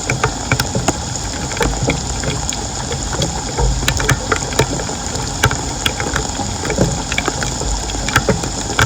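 Floodwater running and splashing, with frequent short sharp clicks over a steady low rumble.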